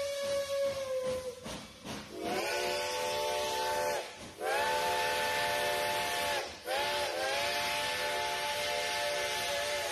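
Chime steam whistle blowing three blasts over steam hiss, each blast a chord of several tones that bends up slightly as it opens, the third blast the longest.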